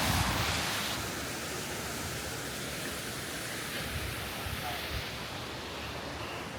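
Waterfall rushing: a steady hiss of falling water that drops a little in level about a second in and then holds.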